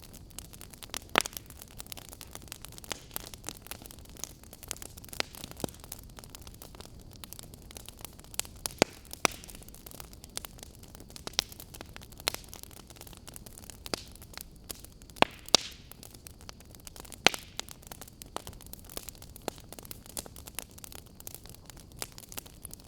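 Fire crackling: irregular sharp pops and snaps over a steady soft hiss, with a few louder pops scattered through.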